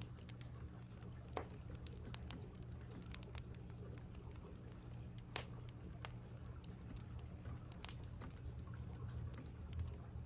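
Typing on a computer keyboard, a steady irregular patter of key clicks, with a few louder sharp crackles of burning firewood about a second in, near the middle and about eight seconds in. Beneath it runs a steady low rush of a stream.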